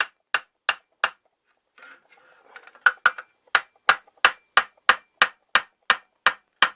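Hammer tapping a blade into the seam between the end cap and body of a stock Harley-Davidson Street 750 silencer to prise the cap off. Sharp, even taps about three a second, with a short pause of faint scraping about a second in before the tapping resumes.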